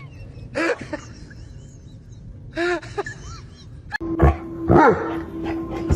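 A dog giving short, high yips, twice in the first half, then louder yelps that slide down in pitch near the end.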